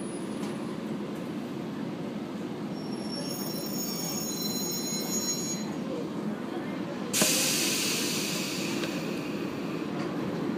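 Inside a JR 115-series electric train rolling slowly into a station: a steady low running rumble, with a high-pitched brake squeal in the middle. About seven seconds in comes a sudden hiss of brake air that fades away over the next few seconds.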